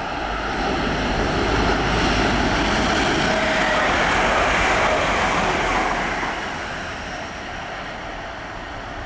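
A Grand Central diesel passenger train passing at speed: the engine and wheel noise builds as it approaches, is loudest for a few seconds in the middle, then fades as it draws away.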